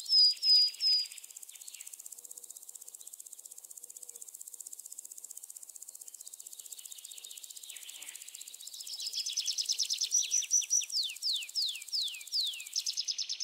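Birdsong: rapid high chirps, then a fast, even, softer trill, then near the end a string of quick falling whistles, cutting off suddenly.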